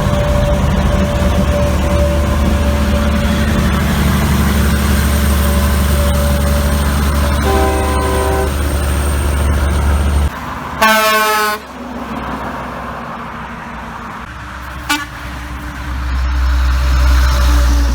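Heavy trucks passing on a highway with a steady low rumble. A truck horn sounds briefly about eight seconds in, then a louder, short horn blast comes just after ten seconds. A brief tone follows near fifteen seconds as the rumble of another truck builds.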